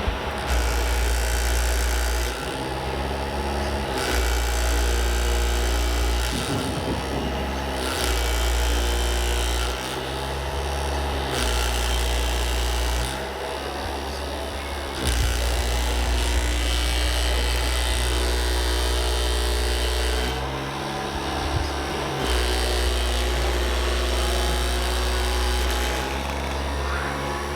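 Small electric motors and hydraulic pump of an RC scale construction machine whirring under changing load. The low hum cuts in and out every second or two, and its pitch steps up and down as functions are worked.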